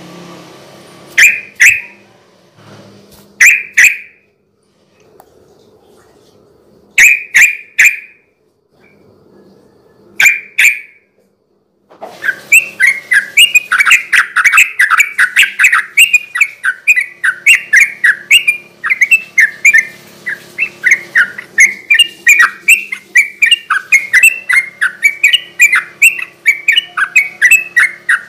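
Yellow-vented bulbul (trucukan) singing. First come short, bubbly two- and three-note phrases a few seconds apart. From about twelve seconds in, a fast, continuous chattering run of notes follows, the rapid 'ropel' song used to lure and provoke other trucukan into singing.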